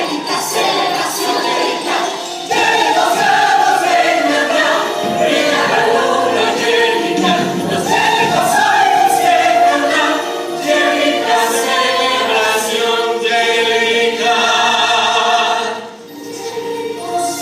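Stage-musical ensemble singing in chorus over the orchestra, in a mix of moving lines and held notes. It grows louder about two and a half seconds in and dips briefly near the end.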